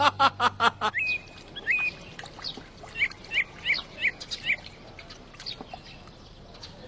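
Small birds chirping, with short high chirps and quick rising chirps, most of them in a run between about two and a half and four and a half seconds in. Before that, a fast run of loud, sharp sounds stops about a second in.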